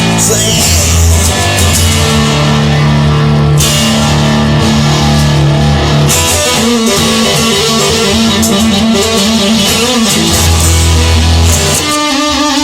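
Instrumental rock music: electric guitar and bass playing a loud, steady passage with no singing.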